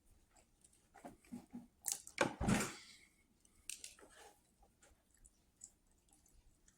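Close, irregular crunching noises, a cluster of them from about one to three seconds in, then a few scattered clicks.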